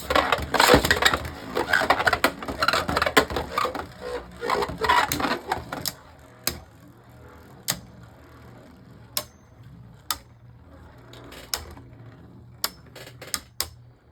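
Two Beyblade Burst spinning tops, Harmony Pegasus and Achilles, clashing in a plastic stadium: a dense rattle of collisions for about six seconds, then scattered single sharp clicks and knocks about a second apart as the tops slow down.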